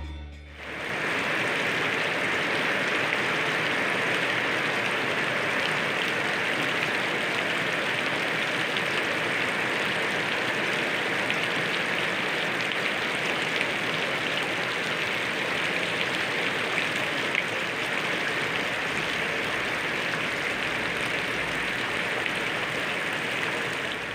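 Hot cooking oil sizzling steadily as pieces of ubi fry in it, a constant hiss with faint crackles.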